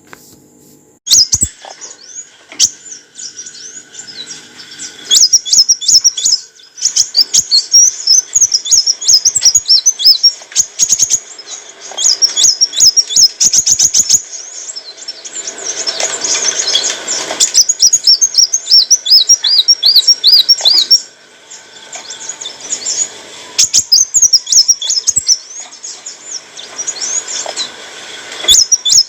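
A kolibri wulung sunbird singing a rapid, high-pitched song of quick repeated chirps, clicking notes and fast trills that starts about a second in, with a short lull about two-thirds of the way through.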